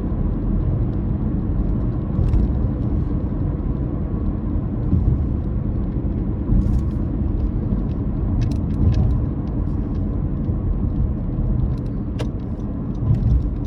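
Car driving: a steady low engine drone and road rumble, with a few faint, scattered ticks over it.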